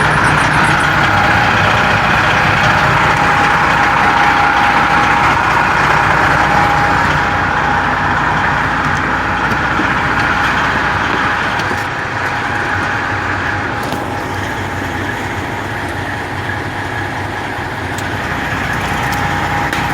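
Semi truck's diesel engine running steadily along with road noise, easing off slightly about twelve seconds in.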